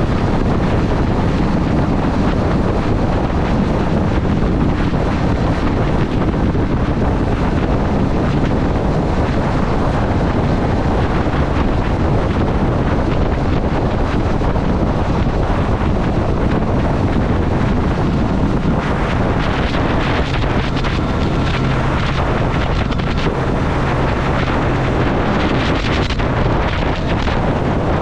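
Heavy wind noise rushing over the microphone on a moving Triumph Street Triple, with the motorcycle's three-cylinder engine running underneath; a steady engine note stands out for several seconds about two-thirds of the way in.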